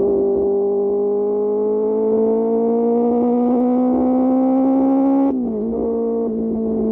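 QJ Motor SRK600 inline-four with an SC-Project exhaust pulling under throttle, its pitch climbing steadily, then dropping sharply about five seconds in and settling to a steady note.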